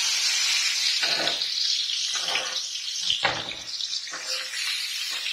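Food frying in hot oil in a wok, a steady loud sizzle, with a few strokes of a metal spatula through it.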